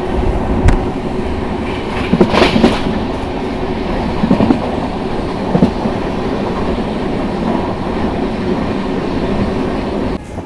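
Vikramshila Express passenger train running between stations, heard close up from the coach doorway: a steady loud rumble of wheels on rail with a few sharp clacks over rail joints, the loudest clatter about two seconds in.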